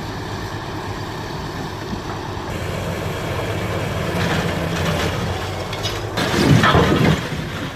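A heavy vehicle engine running steadily, with a louder, rougher surge about six and a half seconds in.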